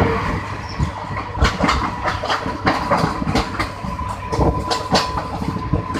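Indian Railways passenger train running past, its wheels clattering over rail joints in irregular sharp clicks over a steady rumble, with a thin steady whine.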